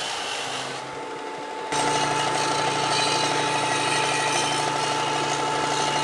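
A handheld electric power tool cuts in abruptly just under two seconds in and runs steadily with a constant high tone over a low hum, taking a little off the stainless exhaust pipe's cut angle.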